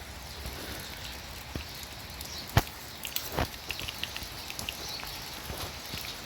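Rain falling, with scattered drops ticking close by and two louder taps a little past the middle.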